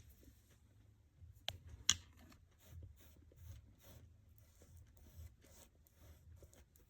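Faint handling and rustling while molding trim is glued, with two sharp clicks close together about a second and a half in.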